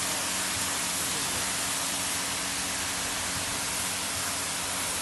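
W200D automatic car wash machine running: a steady hiss of spraying water with a faint steady hum beneath it.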